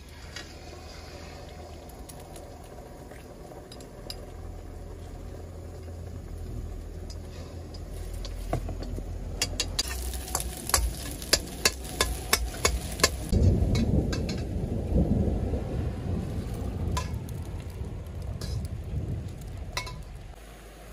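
Eggs frying in hot oil in a pan, with a quick run of sharp clinks from a utensil against a bowl or pan partway through, then a louder stretch of sizzling. Rain falls throughout.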